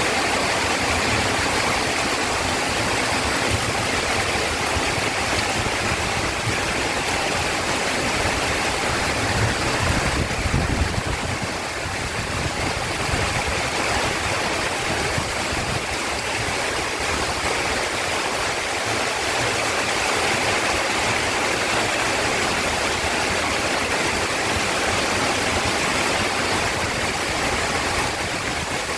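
Heavy rain pouring steadily, a dense even hiss, with a brief low rumble about ten seconds in.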